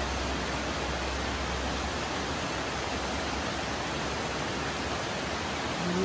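Steady rushing water of a mountain stream, an even hiss. A short hum-like voice sound comes right at the end.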